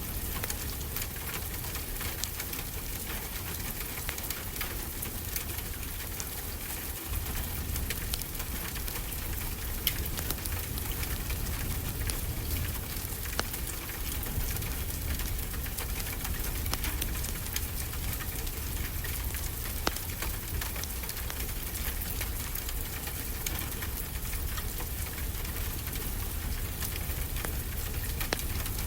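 Steady rain as a continuous even hiss, with the small, sharp, scattered crackles of a wood fire in a fireplace.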